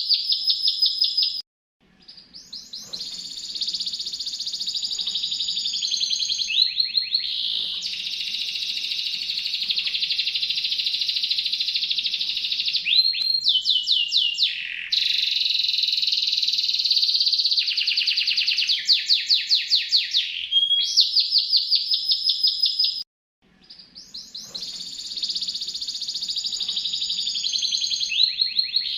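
A captive songbird singing long, rapid rolling trills that switch abruptly from one trill type to the next. The song cuts off twice, briefly, and fades back in each time, as a looped training recording does.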